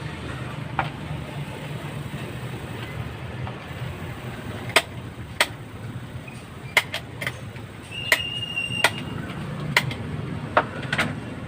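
Repaired electric fan's motor running with a steady low hum, spinning again. Sharp clicks and knocks come at irregular moments over it.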